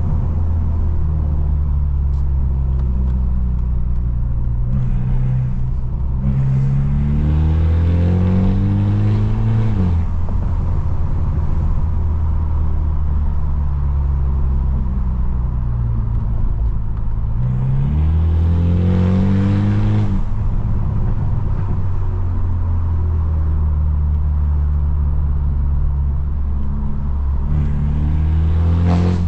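Straight-piped, Stage 2-tuned BMW F30 sedan's exhaust droning steadily while cruising, with three hard accelerations where the pitch climbs. The first two climbs break off sharply, near 10 and 20 seconds in.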